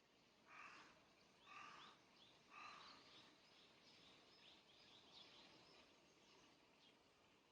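Birds calling: three louder, harsh calls about a second apart in the first three seconds, with many faint, short, high chirps scattered throughout. A soft, steady wind noise runs underneath.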